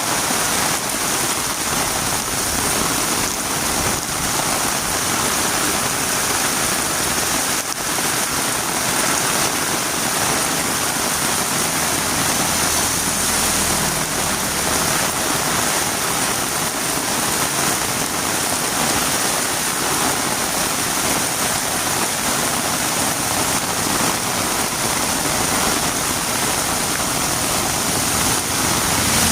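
Heavy rain falling steadily on a road, an even hiss with no breaks.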